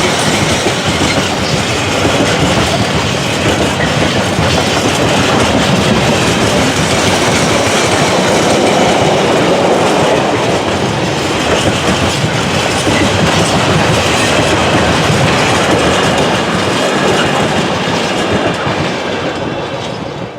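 A train passing close by: a loud, steady rush of wheels on rails with clickety-clack, easing off near the end.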